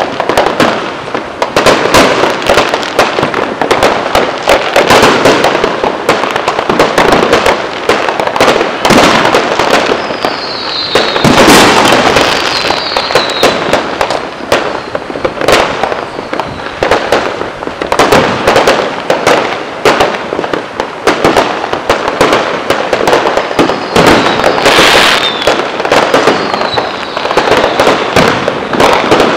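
Fireworks going off in a continuous barrage of bangs and crackles, with loud sharp cracks about a third of the way in and again toward the end. A few whistles falling in pitch sound twice.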